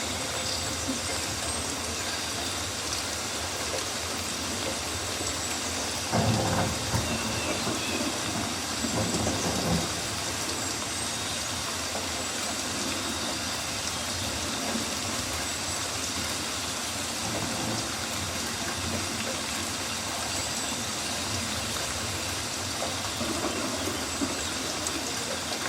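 Rainforest ambience of steady rain hiss, with two louder, lower swells about six and nine seconds in.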